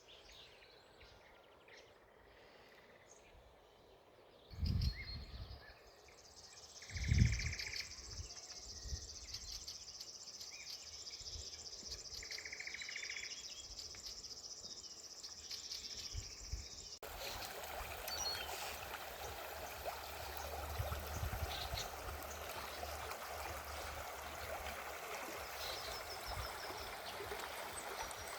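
Outdoor spring ambience: a steady high buzz with faint bird calls and two low thumps, then, after an abrupt cut a little past halfway, a river running with a steady rush.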